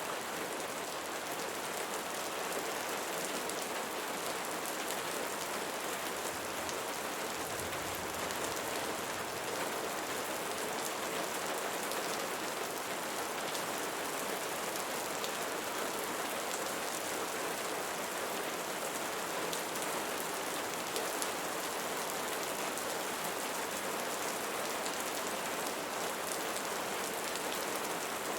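Steady rain falling on a surface: an even hiss with fine drop patter throughout.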